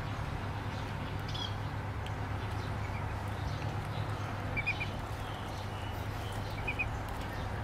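A few faint, short bird chirps, some in quick triplets, over a steady low hum and hiss.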